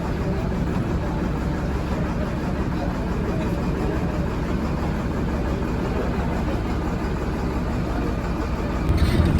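Safari bus engine running steadily, heard from on board, with a sudden louder shift just before the end.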